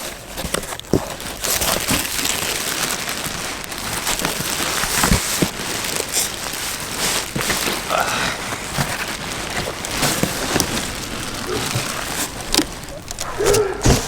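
Continuous rustling and crinkling of packaging and the blind's fabric cover being handled and pulled out, with scattered small clicks and knocks.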